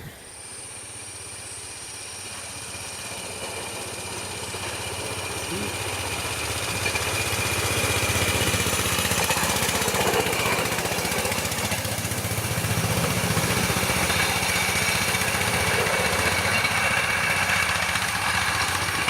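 Engine of a rail vehicle drawing near, growing louder over about eight seconds, then running loud and steady with a low hum and a high whine until it cuts off at the end.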